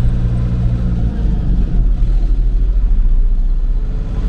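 Tractor engine running steadily under way, a low drone whose main note drops lower about a second in.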